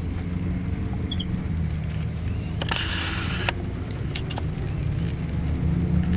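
Scania K410iB double-decker bus engine running steadily under way, heard from inside the cabin as a low drone. A short hiss comes about two and a half seconds in and lasts about a second, with scattered light clicks.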